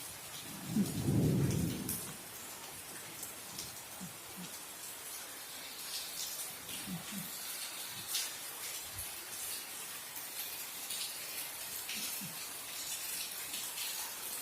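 Tilapia frying in hot oil: a steady crackling sizzle that sounds like rain, with a short low rumble about a second in.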